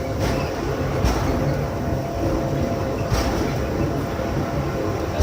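Pilatus Railway electric rack-railway railcar running, a steady low rumble and hum with a few sharp clacks.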